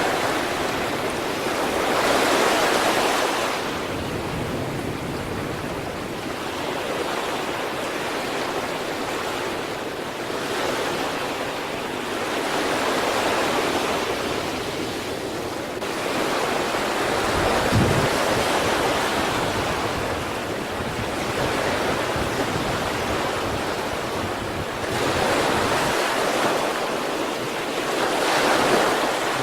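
Sea waves of Korea's East Sea breaking and washing up the shore, swelling into a surge every few seconds and falling back between them. A deeper thud comes with the loudest surge, a little past the middle.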